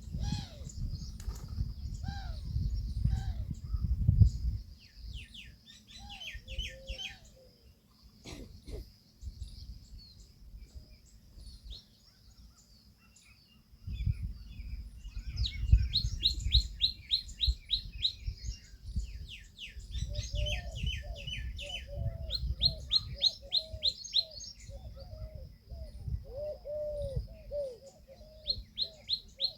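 Birds calling: fast series of short, high falling notes, several a second, with a lower note repeated over and over in the second half. A low rumble comes and goes beneath them.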